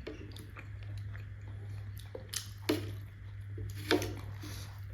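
Close-miked chewing of momo dumplings: soft, wet mouth sounds with a few sharper smacks around the middle, over a steady low hum.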